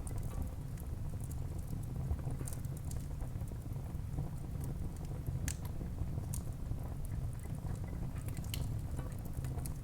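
Wood burning in a fireplace: irregular crackling with sharp pops, the loudest about five and a half and six and a half seconds in, over a steady low rumble.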